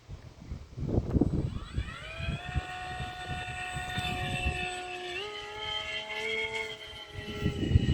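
RC model aircraft's motor spooling up with a rising whine, then running at a steady pitch that steps up about halfway through and eases off near the end.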